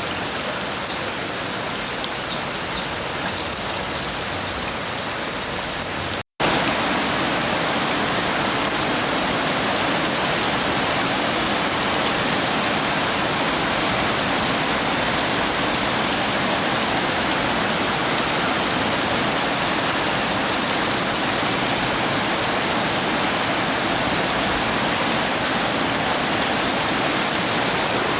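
Heavy rain falling steadily, an even hiss of drops on surfaces. About six seconds in it cuts out for a split second and comes back slightly louder.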